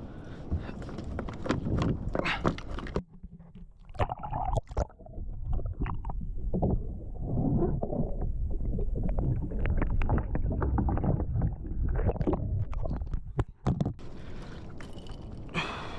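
Water sloshing and lapping against a kayak hull, with frequent knocks and clatters on the boat and a low rumble of wind on the microphone.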